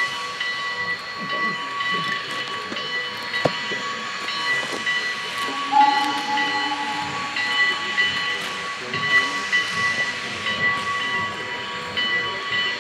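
Geared steam logging locomotive standing with steam hissing, several steady high tones running through the hiss and breaking off now and then. A short lower tone sounds about six seconds in.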